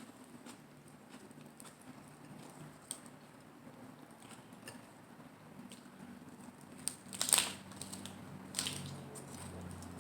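Close-miked eating of lettuce-wrapped salad rolls: soft mouth clicks and chewing, with a loud crunchy bite about seven seconds in and a smaller one a second later.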